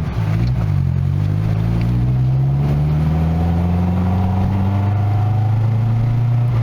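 Classic Nissan Sunny's engine and exhaust, which runs with little more than an open back box, pulling away and accelerating. The engine note climbs slowly for several seconds, then holds steady near the end.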